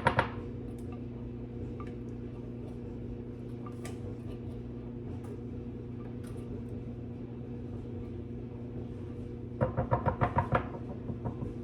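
Steady low electrical hum. A spoon knocks and scrapes against a dish once at the start, then about eight times in quick succession near the end, as food is spooned into the casserole mix.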